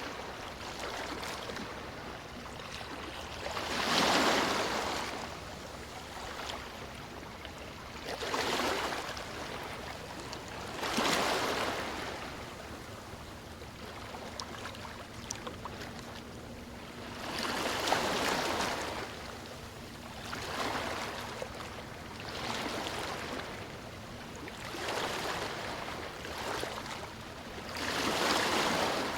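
Sea waves breaking on a beach: about eight surges of surf, each rising and falling over a second or two, over a steady wash of water. The loudest wave breaks about four seconds in.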